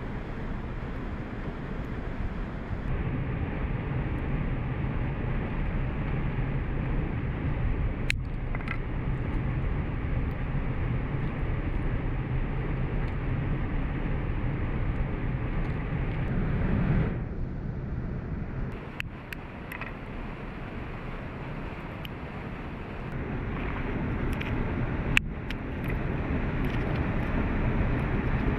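Steady rushing of a waterfall, its level shifting a couple of times, with a few sharp clicks or knocks over it, the loudest near the end.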